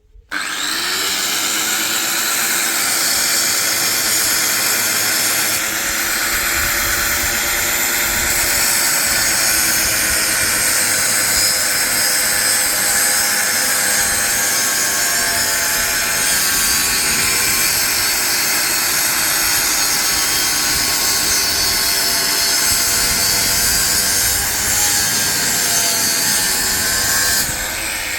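Electric power tool motor running under load, with a steady whine that wavers slightly in pitch over a hiss of cutting or drilling noise. It starts abruptly and keeps going for nearly half a minute, easing off near the end.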